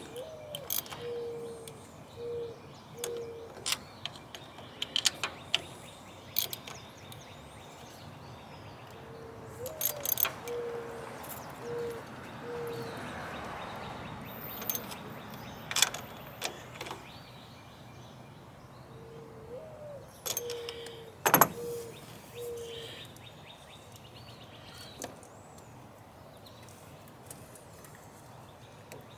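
Mourning dove cooing three times, about ten seconds apart, each song a rising coo followed by three or four low level coos. Scattered sharp clicks and knocks come in between, the loudest a sharp knock about 21 seconds in.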